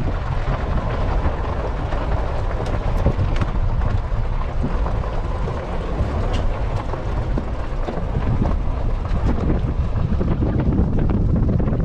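Wind buffeting the microphone, a steady rumbling roar with a hiss above it.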